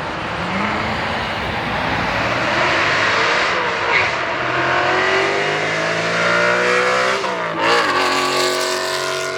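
A performance car doing a donut, its engine revving high while the rear tires spin and squeal in a steady hiss. The revs climb for a couple of seconds, drop sharply about two seconds before the end, then climb again.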